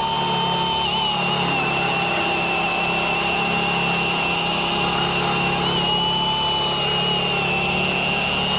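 Milwaukee battery-powered top-handle chainsaw running steadily through a cut, its motor and chain giving an even whine that wavers slightly in pitch now and then.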